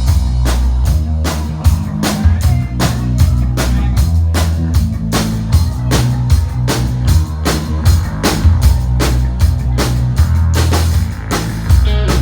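Rock music: a drum kit keeps a steady, even beat over a heavy bass line.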